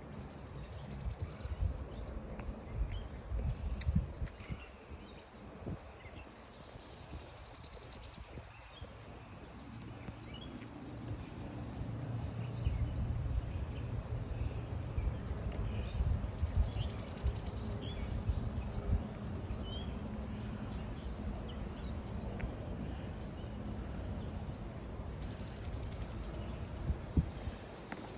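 Birds chirping now and then over a low rumble, which grows louder about twelve seconds in.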